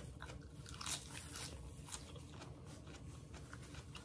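A person chewing crunchy food, irregular crunches with one a little louder about a second in.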